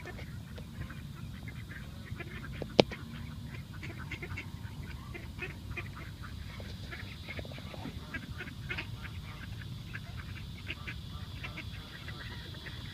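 A flock of ducks and other waterfowl calling, many short calls overlapping without a break. A single sharp click stands out a little under three seconds in.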